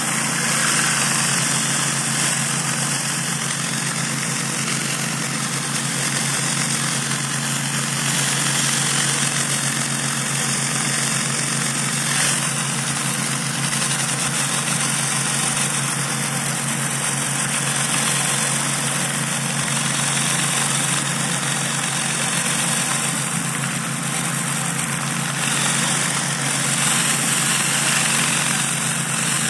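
Pressure washer running steadily, its engine holding a constant pitch under the continuous hiss of high-pressure water spraying exposed aggregate concrete. The machine delivers 8 gallons a minute at about 3,000 psi.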